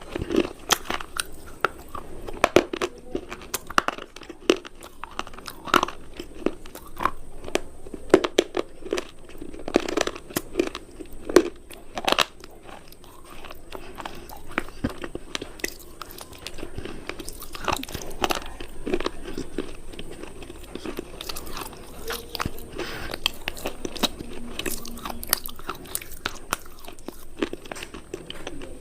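Brittle cubes being bitten and chewed with sharp, crisp crunches, loud and frequent for the first dozen seconds, then a softer, steadier crunching.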